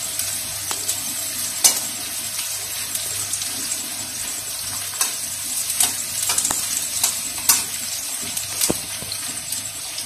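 Chopped onion sizzling in hot oil with cumin seeds in a kadhai while a metal spatula stirs and scrapes it, with a few sharper clinks of the spatula against the pan, the loudest about one and a half seconds in.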